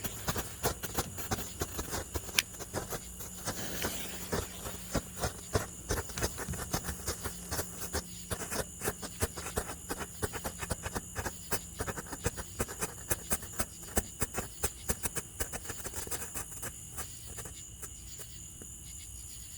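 Small 'Strobing Fun' / 'Flashing Signal' strobe fireworks going off: rapid, irregular sharp pops and crackles, many a second, thinning out and stopping near the end.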